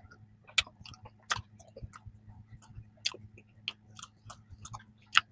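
Close-miked chewing of bread pastry: a steady stream of small mouth clicks and soft crackles, with a few sharper crisp clicks scattered through it.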